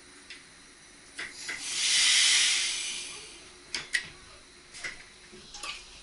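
A hiss of compressed air venting, swelling to a peak and fading away over about two seconds, followed by a few sharp clicks. It is most likely air let out of an SGM Sprinter train's pneumatic system at a stop.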